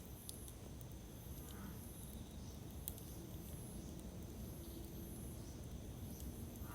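Wood campfire crackling with scattered small pops, the sharpest about three seconds in, over a low steady hush. Insects chirp in high repeated bursts behind it.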